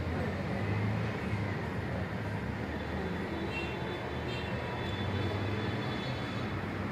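A steady low rumble of background traffic or machinery, with a few faint, short high ticks about halfway through.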